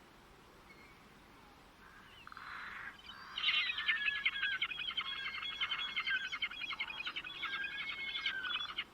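A songbird singing one long, fast, jumbled warbling song that starts about three seconds in and runs until just before the end, after a faint start.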